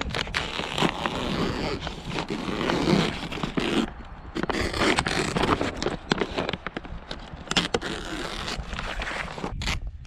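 Greenhouse plastic sheeting being trimmed and handled: long stretches of scraping and crinkling with many small sharp clicks, easing briefly about four seconds in.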